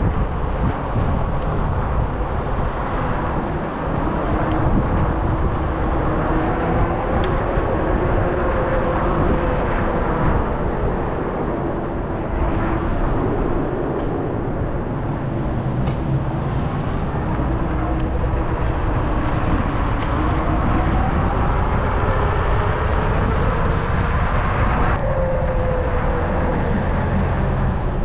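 Wind rushing over the microphone while riding an e-bike, with the electric motor's faint whine sliding up and down in pitch as the speed changes.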